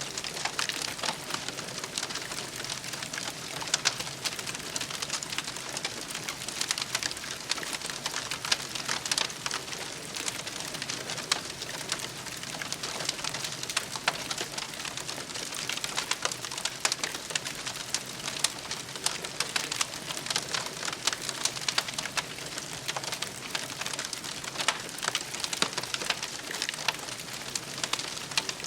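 Campfire crackling: dense, irregular crackles and pops over a steady hiss, at an even level throughout.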